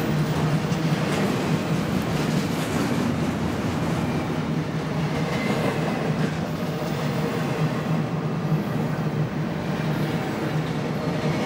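Freight train cars rolling past at close range: a steady, continuous noise of steel wheels running on the rails, with a low hum underneath.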